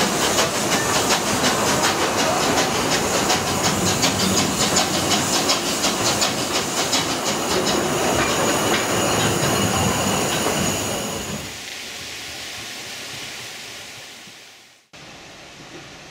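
Groudle Glen Railway narrow-gauge train running, heard from an open carriage: wheels on rail with rapid, even clicking, a steady high squeal and some hiss. The sound drops about eleven seconds in and fades out near the end, giving way to a steady rush of wind on the microphone.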